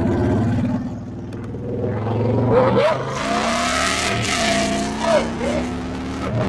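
Honda Fury's big V-twin engine accelerating under way, its pitch climbing and breaking at gear changes. A rushing wind noise over the microphone builds from about three seconds in.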